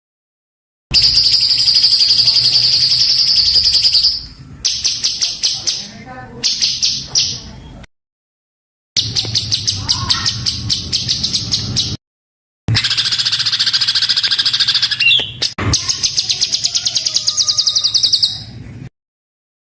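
A songbird singing long runs of very rapid, dense, harsh repeated notes, the coarse 'tembakan' bursts used as master song for training cage birds. The runs stop and start abruptly, with sudden silent gaps a few times.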